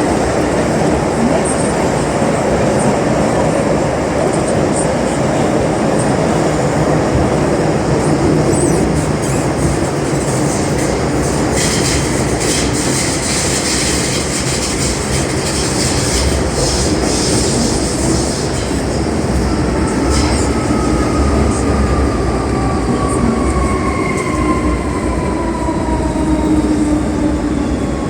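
Interior of an MTR M-Train metro car running at speed: steady wheel and track rumble, with a stretch of high-pitched wheel squeal and crackle about halfway through. In the last third the traction motors give a whine that falls in pitch as the train starts braking.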